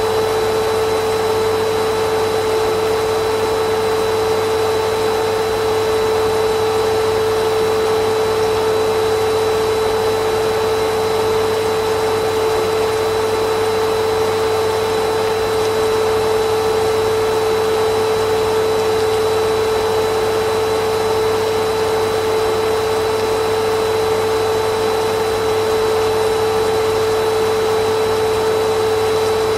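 Vacuum cleaner running steadily: an even whooshing rush with a strong steady hum of the motor, unchanging throughout.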